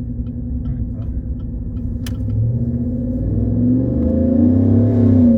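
The 6.2-litre V8 of a 2021 Chevrolet Silverado 1500 running through a Walkinshaw full exhaust system, heard inside the cab with the windows up. It drones steadily, then grows louder and rises in pitch as the truck accelerates from about two and a half seconds in. A faint ticking about twice a second sits underneath.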